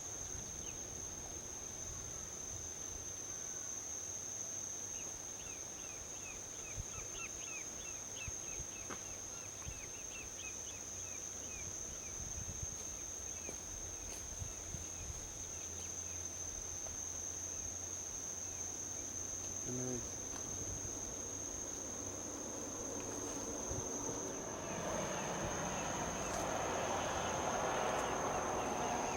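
Insects, crickets by their sound, keep up a steady high-pitched buzz, with a run of short bird-like chirps in the first half and one brief call about two-thirds of the way in. Near the end a rushing noise of highway traffic swells and grows louder.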